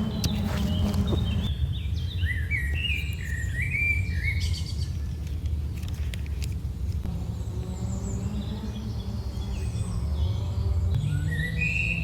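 Small birds chirping in runs of short, quick notes, busiest in the first few seconds and again near the end, over a steady low rumble.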